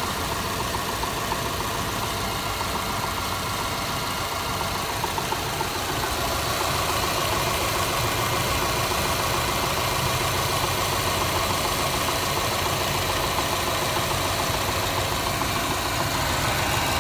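Car engine idling steadily, running slightly rough, with a knock that the owner is trying to locate.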